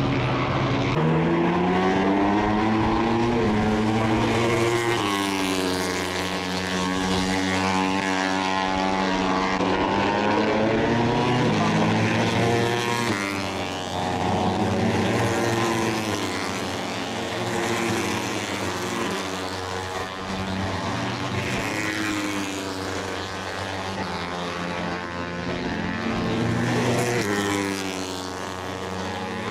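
Moto3 race bikes' 250 cc single-cylinder four-stroke engines revving hard as they pass, pitch climbing and then dropping at each upshift, over and over as several bikes go by in succession.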